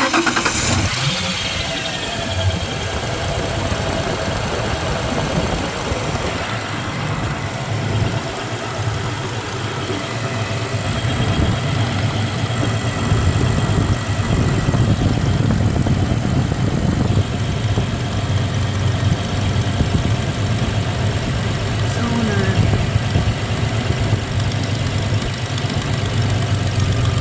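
1993 Ford Ranger's 3.0 V6 comes in suddenly at the start and then runs steadily at idle, with a cylinder misfiring that is being traced one cylinder at a time.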